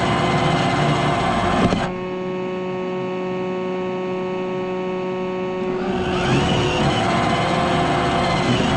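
iRobot Roomba robot vacuum running, a steady motor whine under a rough brushing, sucking noise. About two seconds in the rough noise cuts off abruptly, leaving only the steady whine. It builds back up about six seconds in.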